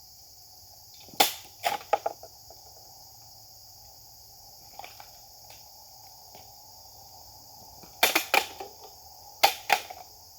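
Japanese sword (katana) test-cutting: sharp swishing cuts in quick groups of two or three, one group about a second in and more near the end.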